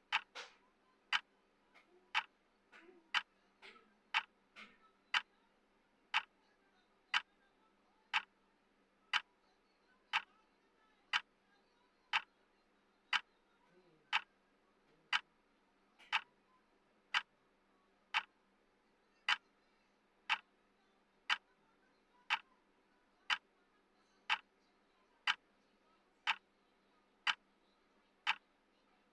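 Clock ticking, one sharp tick a second, with a few fainter extra ticks in between during the first few seconds.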